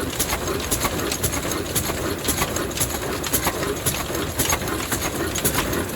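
Vintage Ruston stationary diesel engine running steadily, with a rhythmic mechanical clatter of repeated sharp ticks.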